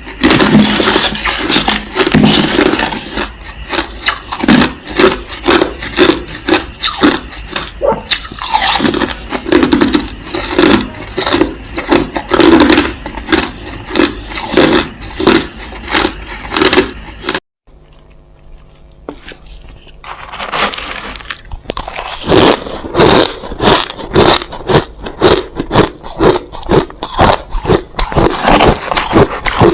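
Crushed ice being bitten and chewed close to the microphone, a rapid run of sharp crunches. About two-thirds of the way through, the crunching cuts off suddenly for a couple of seconds of faint hum, then starts again.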